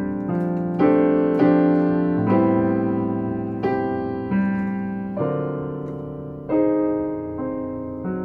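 Solo jazz piano playing a slow ballad. Sustained chords are struck about once a second and left to ring and fade, growing softer near the end.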